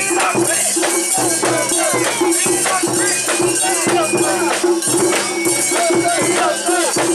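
A Japanese shrine-festival mikoshi procession: a crowd of bearers shouting and chanting over a fast, continuous rattle and clatter, typical of a portable shrine's metal fittings being shaken as it is bounced along. A steady held tone, like festival music, runs underneath.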